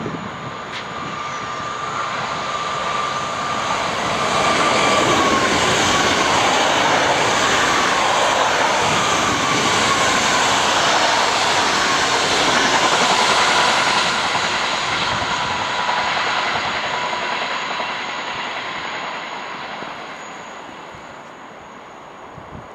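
A three-unit TER 2N NG (Z 2N NG) double-deck electric multiple unit train passing at speed. The rumble of wheels on rail builds, stays loud for about ten seconds, then fades as it moves away. A steady whine runs through it and drops a little in pitch as the train goes by.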